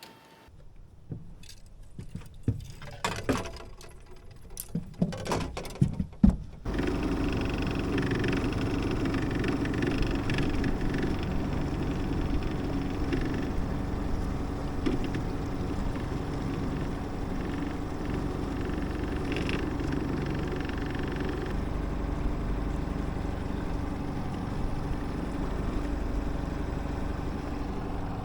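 Scattered knocks and clicks of handling gear in the boat, then about six and a half seconds in a small outboard motor is heard running steadily at low speed, as when trolling.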